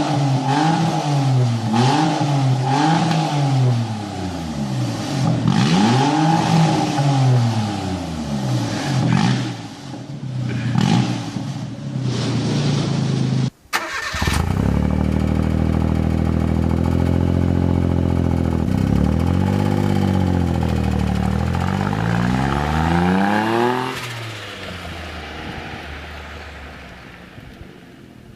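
Three-cylinder car engine revved repeatedly in quick up-and-down blips. After a sudden cut about halfway, another three-cylinder engine runs at a steady note with a few revs, then fades away near the end.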